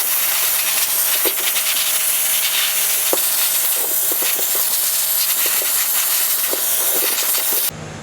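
Compressed air hissing steadily, with scattered small ticks, then cut off suddenly near the end.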